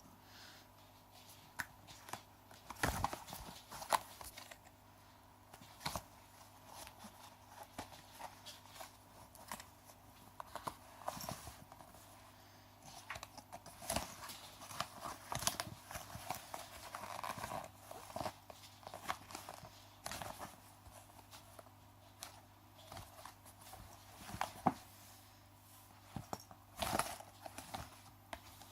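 Scattered, irregular light thumps, taps and scratchy scuffles of a cat pouncing and tussling, with quiet stretches in between.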